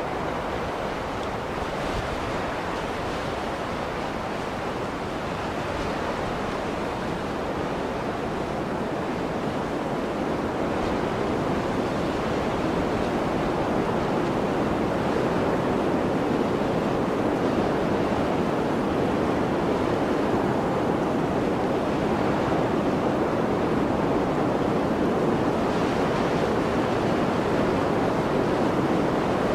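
Blizzard wind blowing as a steady, even rush of noise that slowly swells louder through the first half and then holds.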